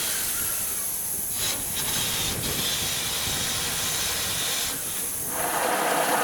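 Steam hissing steadily from a Burrell steam traction engine, briefly dipping and returning twice.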